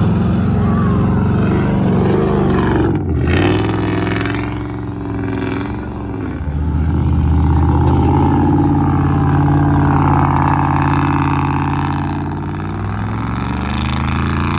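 Truck engine revving under load. Its pitch dips about three seconds in and again around six seconds, then climbs and holds high before easing off near the end.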